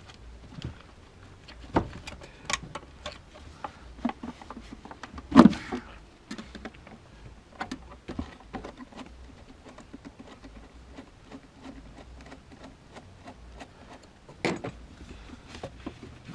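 Hand-work noises from loosening the air-intake hose clamp and pulling the air cleaner assembly off an engine: scattered clicks and light knocks of tools and plastic parts, with a louder knock about five seconds in and another near the end.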